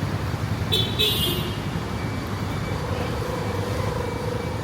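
City street traffic: a steady low rumble of passing vehicles. About a second in there is a short, high-pitched toot, and from about halfway a lower, wavering tone holds for a couple of seconds.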